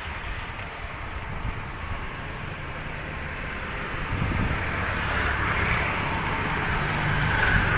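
Car engine running and tyres on the road heard from inside the cabin as the car moves slowly, getting louder about halfway through.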